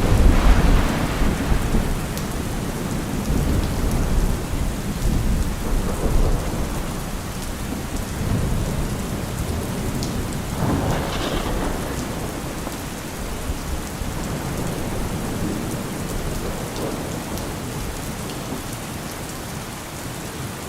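Steady rain falling, with thunder. A loud, low rumble at the start dies away over the first few seconds, and a second rumble comes about ten seconds in.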